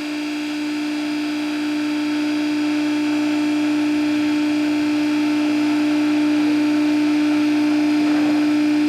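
Steady machine hum: one strong low tone with fainter higher tones over a light hiss, growing slightly louder.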